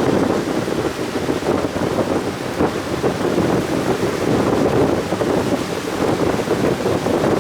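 Heavy monsoon surf breaking continuously on a beach in a steady, surging roar, with wind buffeting the microphone.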